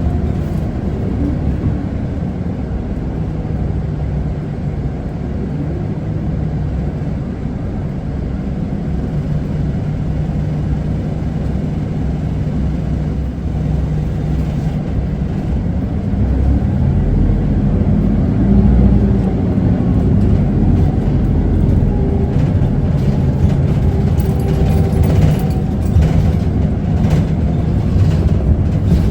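Isuzu Erga city bus running with passengers aboard, heard from inside the cabin: the steady hum of its diesel engine and road noise, getting louder about halfway through as the bus picks up speed.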